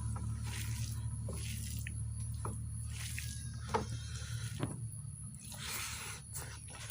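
Close-up wet eating sounds of rice and mutton curry: squelching, smacking and sharp little clicks at irregular moments, the loudest a little under four seconds in. A steady low hum runs underneath and fades after about four and a half seconds.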